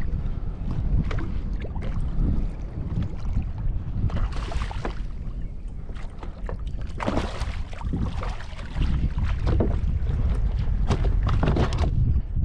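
Wind buffeting the microphone, with irregular splashing and sloshing of water around a kayak.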